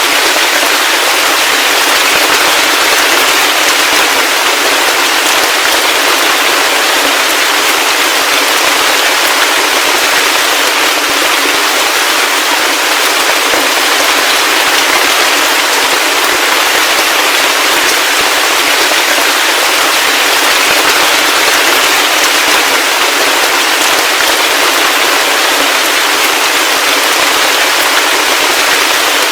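Heavy rain falling steadily, a dense crackling patter with no low rumble.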